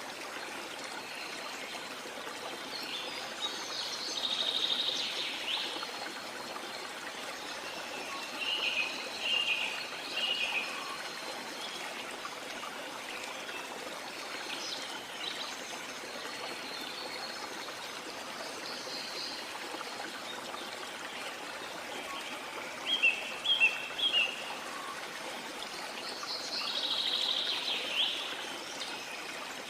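Steady rushing water, with small birds calling over it in short bursts now and then: a phrase about four seconds in, a quick run of notes around nine seconds, three sharp chirps (the loudest sounds) a little past the middle, and another call near the end.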